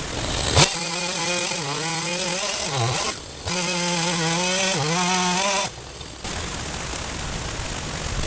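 Two-stroke chainsaw revving hard and cutting through the trunk of a fallen tree, its pitch sagging twice as the chain bites into the wood, with a short break in the middle. The saw drops away about two-thirds through, leaving a steady rushing noise.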